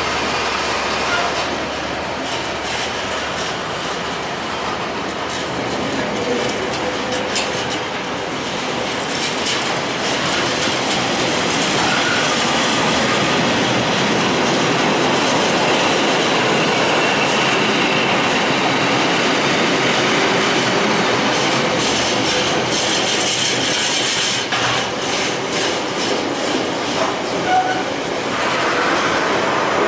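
A train running on the track: a steady rumble that grows louder after about nine seconds, with sharp clicks of the wheels over the rails near the end.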